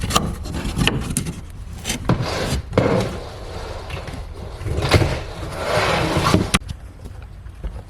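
Wood scraping and knocking as a piece of wood is worked into place by hand, with a few sharp knocks and longer stretches of rubbing.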